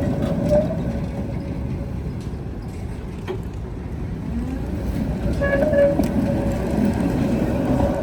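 Tatra tram running on rails: a low rumble of wheels with a steady high whine over it, and a couple of short higher tones about five and a half seconds in.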